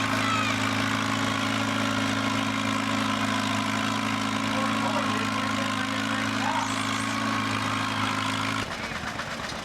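Tractor engine running steadily at an even pitch, then stopping abruptly near the end.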